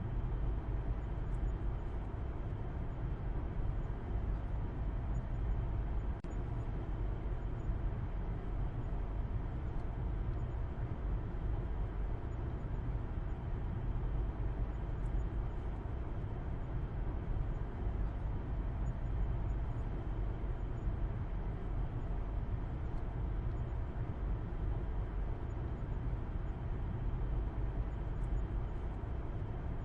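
Car driving steadily on the road, heard from inside: a constant low engine and road rumble with no changes in speed.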